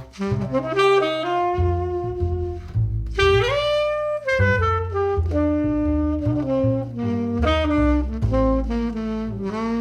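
Tenor saxophone playing a melodic jazz line over upright bass. One note slides up into a long held note about three seconds in.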